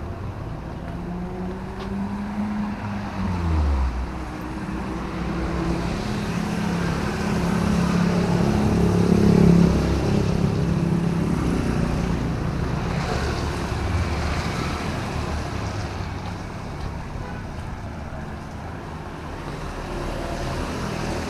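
Motor vehicles passing on a wet city road over a steady background hiss. One engine drops in pitch as it goes by about three seconds in, and a louder one passes about nine seconds in.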